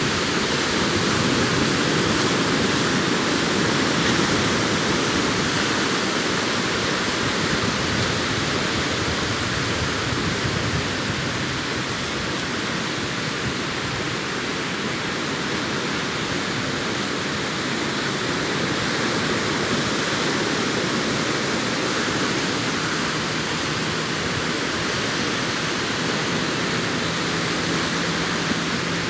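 Arabian Sea surf washing onto the beach, a continuous rush of breaking waves that swells and eases slowly.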